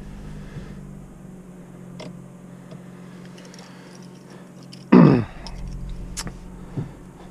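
A 2018 Honda Accord Sport's turbocharged 2.0-litre four-cylinder idling steadily just after starting. About five seconds in there is one loud, brief whoosh that drops in pitch.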